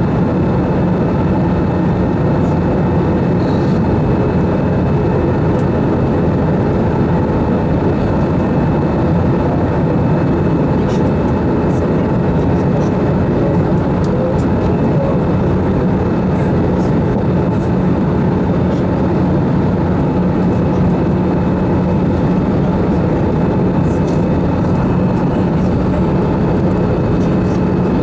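Airbus A320's CFM engines and airflow heard as steady cabin noise in flight, a constant rush with a low hum running through it.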